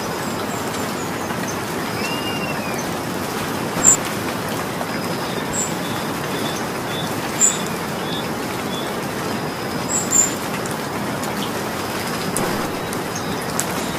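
Steady rain falling, with four louder single drops landing, the last two close together near the middle. A bird chirps faintly now and then.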